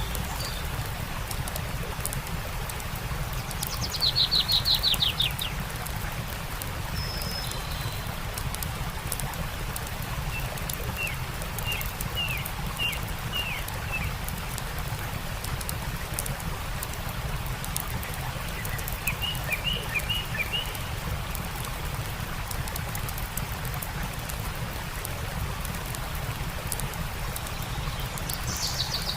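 Birds calling over a steady rush of running water and the fine crackle of a campfire. A rapid trill about four seconds in is the loudest sound, followed by runs of short chirps around twelve and twenty seconds in.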